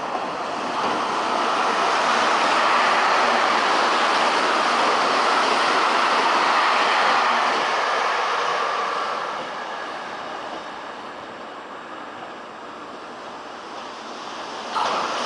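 Meitetsu electric train passing at speed: a rushing noise of wheels and running gear that swells within the first two seconds, holds, and fades after about nine seconds. A sudden louder rush starts near the end.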